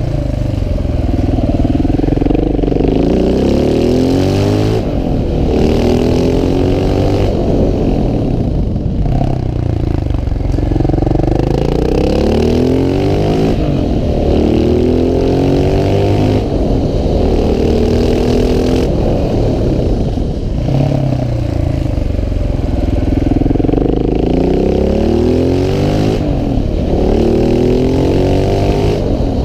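KTM 690 SMC R's single-cylinder engine under way, revving up again and again. Its pitch climbs in runs as it pulls through the gears, then drops back before the next pull, with no let-up in level.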